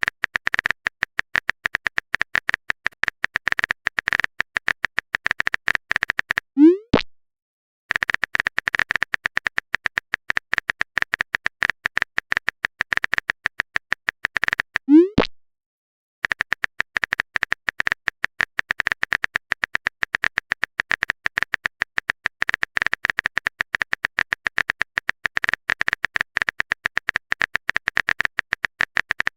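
Rapid clicking of a chat typing sound effect, running in long spells. It breaks off twice, about a quarter of the way in and again near the middle, for a short rising "plop" as a message is sent.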